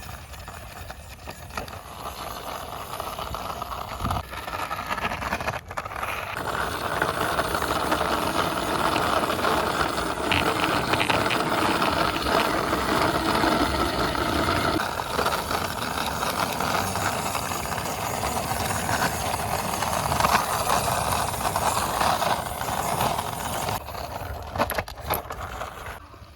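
Toy jeep car's wheels rolling and rattling steadily along a boundary wall as it is pushed by hand, building up over the first few seconds and easing off near the end with a few clicks.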